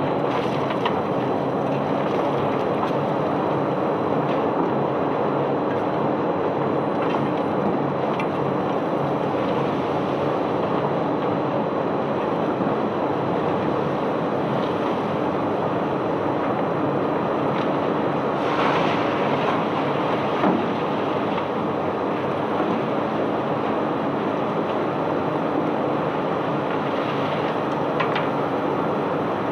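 Crushed white limestone pouring off a barge in a steady rushing flow of rock, with a machinery hum underneath.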